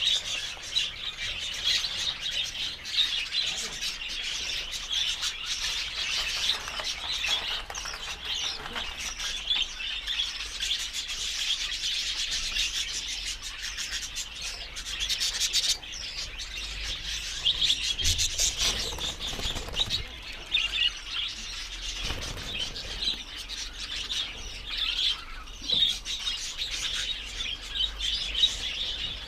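Lovebirds chattering in a steady stream of high, rapid chirps and squeaks, along with a rubbing, scratching noise.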